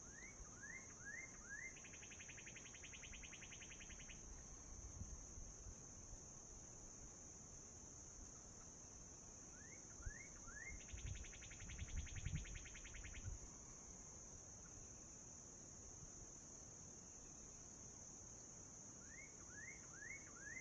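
Steady high insect chorus of crickets, with a songbird repeating its song three times, each a run of four quick rising notes followed by a buzzy trill about two seconds long. Low rumbles of handling noise come in the middle.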